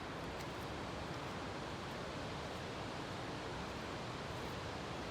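Steady rush of flowing water from a nearby mountain stream.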